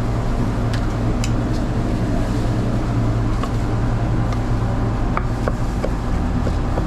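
A steady low machine hum, with irregular sharp knocks of a knife on a cutting board as chicken teriyaki is sliced, most of them in the second half.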